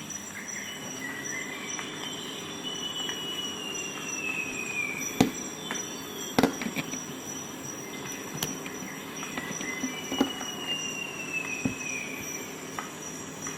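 A few sharp metallic clicks, the snaps of Swiss Army knife tools closing on their springs, over a steady high hiss. Twice a thin high whistle slides slowly downward in pitch.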